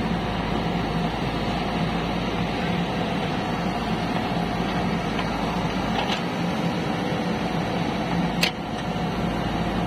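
A motor running steadily, with a constant drone and a faint steady hum. There is a brief high squeak about eight and a half seconds in.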